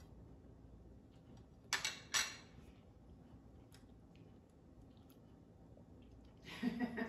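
A person chewing a mouthful of scrambled eggs and bacon, faintly, with two short bursts of noise about two seconds in. A voice starts chuckling near the end.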